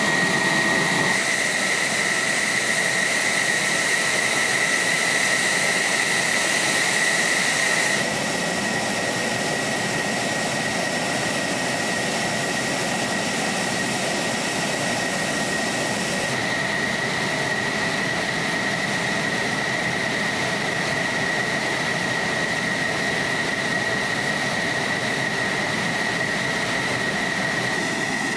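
F-16 Fighting Falcon jet engine running: a loud steady rush with a high whine. The sound changes abruptly about a second in, about 8 seconds in and about 16 seconds in.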